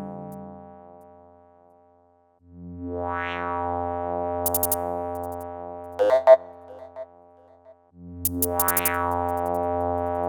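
Electronic synthesizer music from a light-and-sound installation: sustained synth chords fade away and swell back in, each rising with a filter sweep. A cluster of short, sharp clicks comes about six seconds in, and the chord fades and returns near the end.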